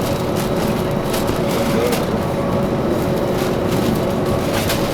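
Steady, loud engine noise with two constant humming tones over a dense rush, and a few faint clicks.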